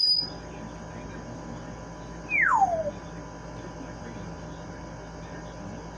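Pet parrot whistling: a sharp high whistle right at the start, then one clear whistle gliding steeply downward about two and a half seconds in.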